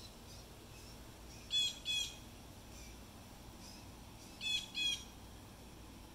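A bird chirping: two short, high chirps in quick succession about a second and a half in, then another such pair about three seconds later.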